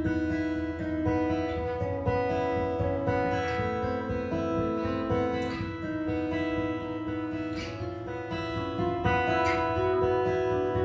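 Improvised jazz guitar: picked single notes and chords ringing over one another at an unhurried pace.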